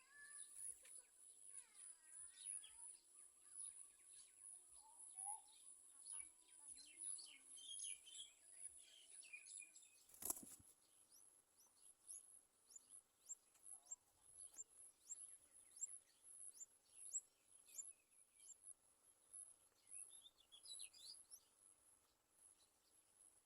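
Faint bird chirps: many short, quick downward-sliding calls, thickest in the first half and again near the end, over a steady faint high-pitched tone, with one sharp click about ten seconds in.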